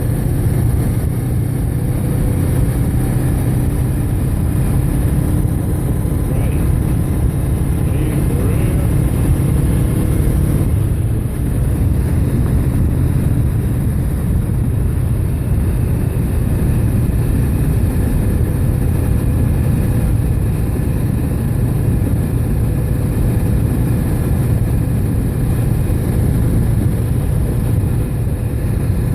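Motorcycle running steadily at road speed, its engine hum under a heavy low wind rumble on the microphone. A faint rising engine note from a passing vehicle comes through about six to ten seconds in.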